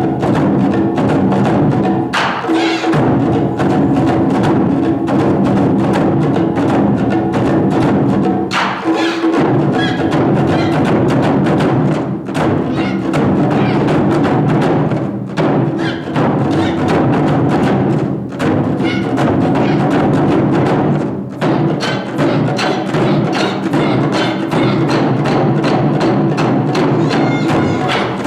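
Ensemble of Japanese taiko drums playing a fast, continuous pattern of strikes, with sharp wooden clicks among the beats, over a steady bed of sustained tones. The drumming briefly drops out several times and comes straight back.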